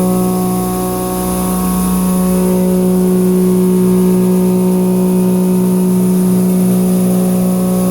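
Mitsubishi APX3000 three-flute indexable shoulder mill with carbide inserts cutting cold-rolled carbon steel on a CNC mill. It makes a steady pitched whine with a hiss of cold air over it.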